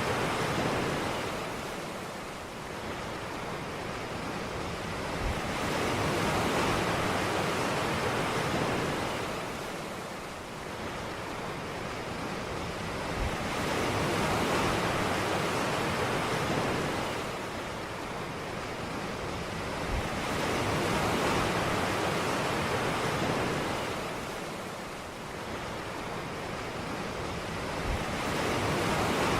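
Ocean surf breaking on a beach, a rushing wash of noise that swells and ebbs about every seven seconds, four waves in all.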